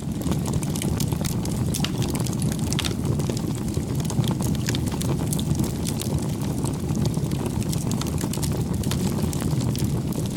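Campfire burning: wood crackling with frequent sharp pops and snaps over a steady low rumble.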